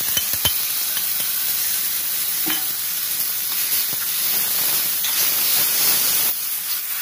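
Tomato puree sizzling in hot ghee with spices in a small pan as a tadka is cooked, with a spoon stirring and clicking against the pan a few times. The sizzle softens a little near the end.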